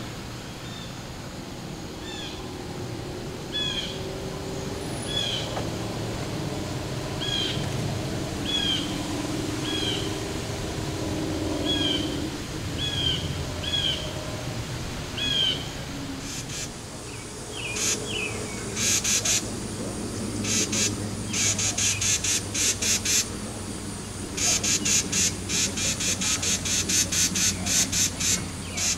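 Outdoor bird calls: a bird repeats a short, slurred high note about once a second. From about halfway, rapid high chattering pulses in quick bursts take over, over a low background rumble.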